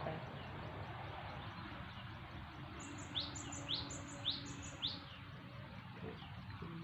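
A bird calling four rising chirps, about two a second, midway through, over steady background noise.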